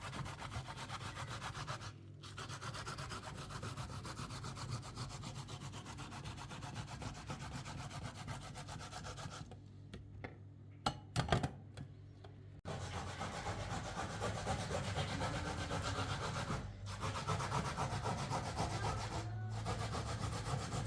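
Steady, fast rhythmic rubbing and scraping that breaks off a few times, with a few sharp knocks during the longest pause near the middle.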